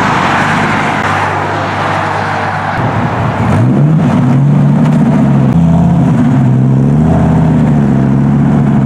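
A car driving past over road traffic noise, then from about three and a half seconds in a Dodge Viper SRT-10's V10 engine rumbling loudly at low revs, its pitch rising and dipping a little as it pulls in.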